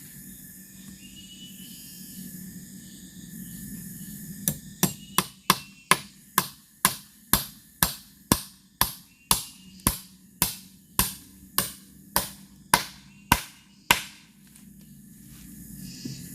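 A tool striking bamboo with about twenty sharp blows. They start about four seconds in, come quickly at first and then slow to about two a second, and stop shortly before the end.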